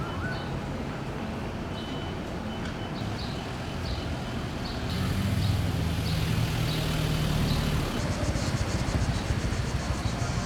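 Street traffic, with a motor vehicle's engine passing close by about halfway through as a louder low hum. Repeated short high chirps run over it, and near the end a fast, even high-pitched pulsing sets in.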